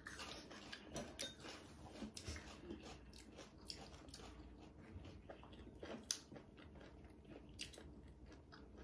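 Faint close-up eating sounds: chewing and biting, with scattered small clicks of chopsticks against bowls and plates.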